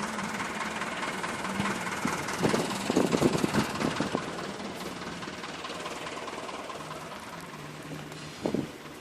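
Massey Ferguson 275 tractor's diesel engine running steadily, with a cluster of louder clattering knocks about three seconds in, then growing gradually fainter.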